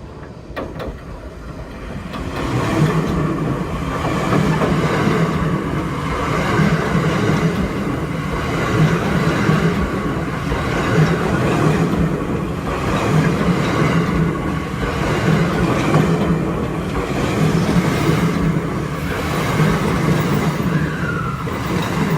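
Train rolling close overhead, heard from beneath: a steady rumble of wheels on rails with a rhythmic clatter, swelling up about two seconds in.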